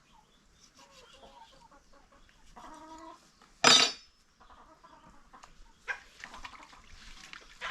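Chickens clucking at intervals, with one short, loud, sharp sound about three and a half seconds in.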